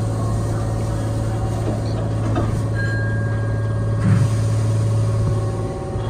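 Hankyu 7000 series electric train running, heard from inside the front car: a steady low hum of the running train, with a brief knock about four seconds in.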